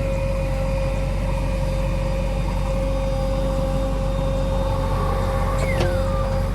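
Heavy diesel engine running steadily with a constant hum, and a short falling squeal with a couple of clicks near the end.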